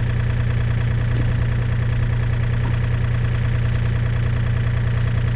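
Engine idling steadily, an even low drone with no change in speed.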